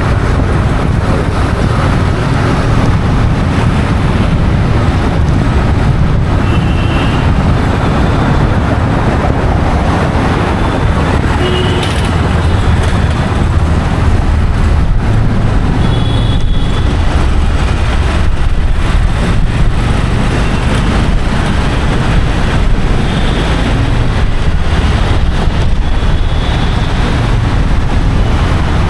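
Steady, loud road traffic noise with a heavy low rumble, and a few brief high tones sounding now and then.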